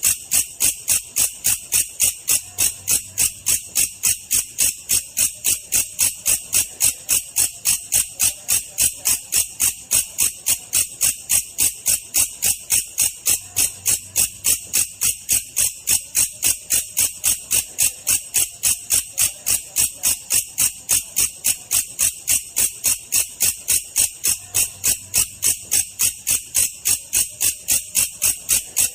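Belalang kecek katydid calling in an even, unbroken train of sharp, high chirps, about four a second, in the slow version used as a song-training track for birds.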